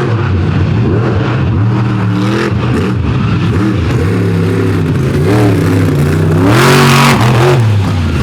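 Monster truck engine revving hard, its pitch repeatedly climbing and dropping as the throttle is worked, with a louder rush of noise about six and a half seconds in.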